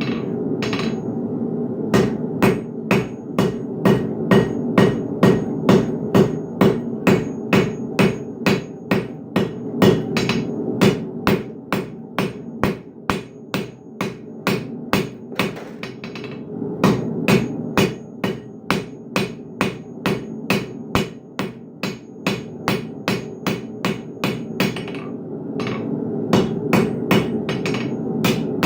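Blacksmith's hammer striking steel on an anvil while forging a hook, ringing blows about twice a second in runs with short pauses between them, over a steady low background noise.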